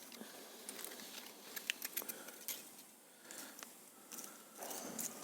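Faint scattered metallic clicks and ticks of a feeler gauge set being handled, its thin steel blades turned over while a 0.22 mm blade is sought to measure a pump gear's clearance in its housing.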